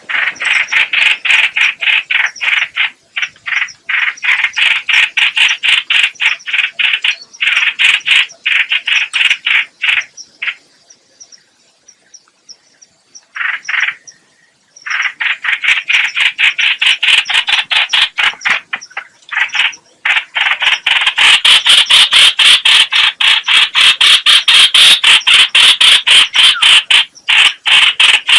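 A bird's call, the species known in Vietnamese as trao trảo or hoành hoạch, is played as a decoy lure. It is a fast chattering rattle of rapid notes, repeated in long runs, with a pause of a few seconds near the middle.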